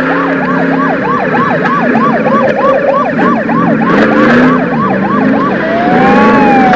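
Police car siren in a fast yelp, rising and falling about three times a second, then slowing into one long wail near the end, over car engines running.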